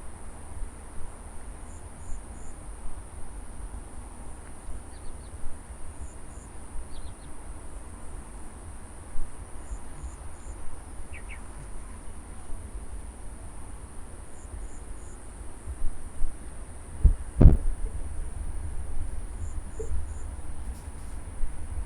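Crickets and other insects in a harvested rice paddy: a steady high-pitched drone with short chirps repeating every second or two. Under it runs a low rumble, and one louder thump comes about seventeen seconds in.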